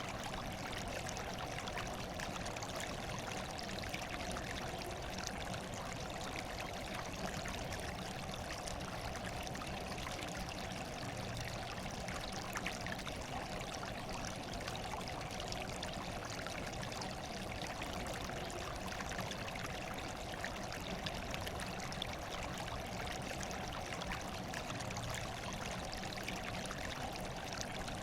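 Running water trickling and pouring steadily, like a small stream, with no breaks or changes.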